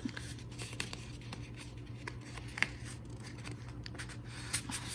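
Faint handling of paper photo cards and cardboard packaging: small scrapes, rustles and clicks, over a low steady hum.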